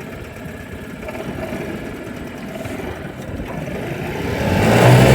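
Small 5 horsepower outboard motor running at low throttle, then opened up about four seconds in, its note growing louder and rising as the boat sets off on a full-throttle run.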